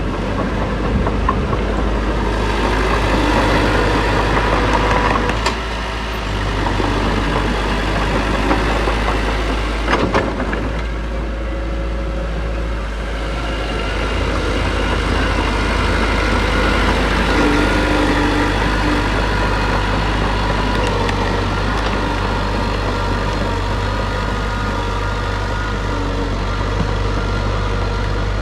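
Diesel engine of heavy earthmoving machinery running steadily, with a short clank about ten seconds in.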